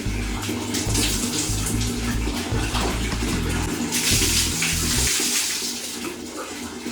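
Water running and splashing steadily, a little louder around the middle.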